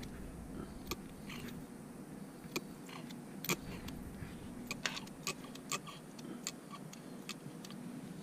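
Irregular light clicks and taps over a low steady hum, the loudest click about three and a half seconds in.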